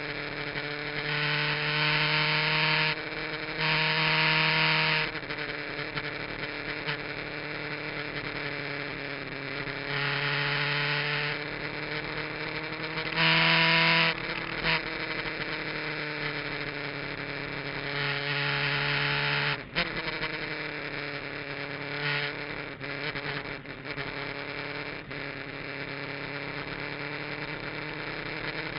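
Kawasaki GPZ900R's inline-four engine with an aftermarket exhaust, running at fairly steady revs. Several louder stretches of rushing hiss come and go, and the engine note breaks briefly about two-thirds of the way through.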